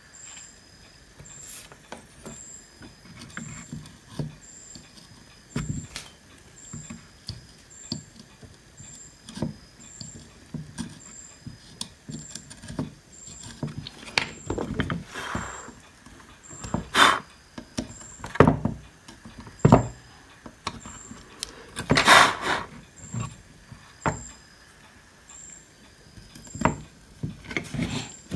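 Scattered clicks, taps and knocks of tools and parts being handled on a workbench, with a few louder knocks in the second half. A faint high pip repeats about once a second behind them.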